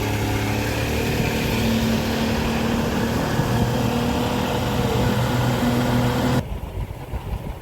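An engine running steadily with a constant hum and rushing noise, which stops abruptly about six seconds in, leaving a quieter background noise.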